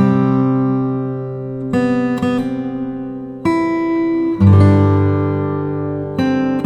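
Acoustic guitar music, with a new chord struck every second or two and left to ring.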